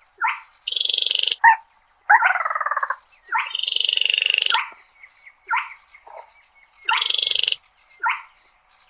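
Crake calling over and over: a series of about nine short, harsh, rasping notes, some brief and some drawn out to about a second with a fine rattle in them.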